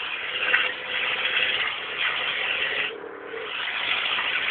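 Peugeot 106's 1.1-litre four-cylinder petrol engine running with no exhaust system fitted, heard from inside the moving car as a steady noisy hiss mixed with road noise. It dips briefly about three seconds in, then builds again.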